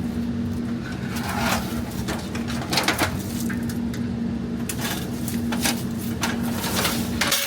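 Irregular knocks, clanks and rattles of metal step ladders being handled and shifted in a tangled pile, over a steady low hum.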